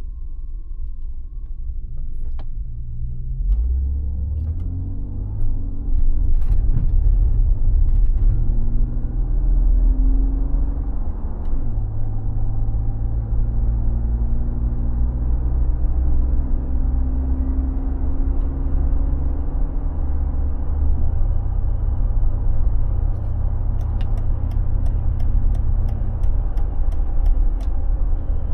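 Mercedes G36 AMG's 3.6-litre straight-six running as the car drives: its pitch rises over the first few seconds as it pulls away, then it runs steadily with a couple of changes in note.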